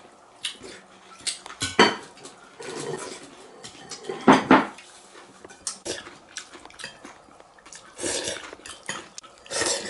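Eating noodles from a bowl: chopsticks clicking and scraping against the bowl, with several louder slurps, the loudest about four seconds in.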